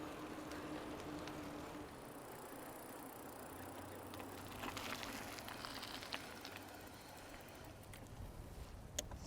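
Bicycles rolling along a paved trail: quiet tyre and drivetrain noise, with a cluster of light ticks about halfway through.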